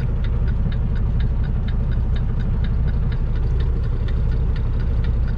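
Semi-truck diesel engine idling, heard inside the cab, with a steady ticking from the turn signal as the truck waits to turn right.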